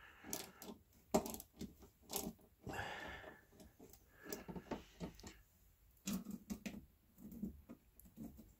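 Faint, scattered clicks, taps and short scrapes of hand work on an oven door hinge and its small Torx screws.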